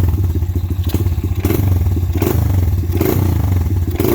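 Pit bike engine running just after being started, with the throttle blipped about once a second. Each time it snaps back to idle, showing the repaired carburetor throttle no longer sticks.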